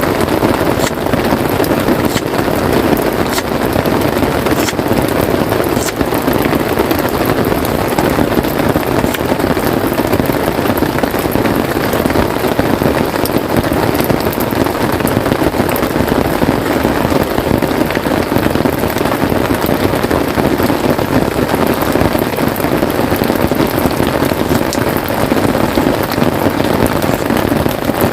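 Steady, heavy rain falling on a tent, with scattered sharp drop ticks over the dense, even hiss.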